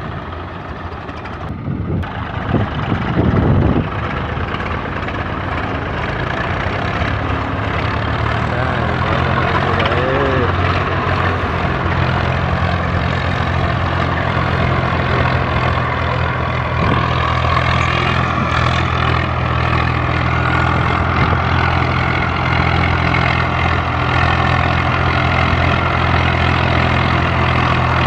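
Several tractor diesel engines running together under load, pulling a combine harvester. A steady low drone that builds in loudness over the first several seconds.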